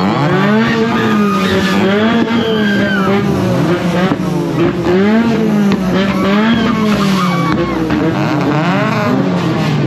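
Modified car's engine revved hard again and again through a loud aftermarket exhaust. The pitch climbs and drops about once a second as the throttle is blipped and released.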